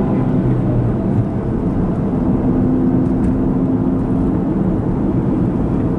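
Car engine and road noise heard inside the cabin: a steady low rumble with a faint hum.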